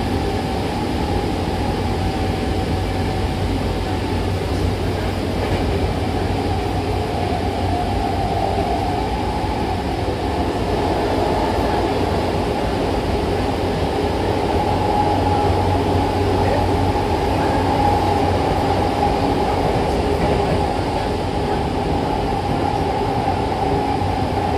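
Hankyu Takarazuka Line electric commuter train running between stations, heard from inside the carriage: a steady running rumble with a humming tone that wavers slightly in pitch, getting a little louder midway.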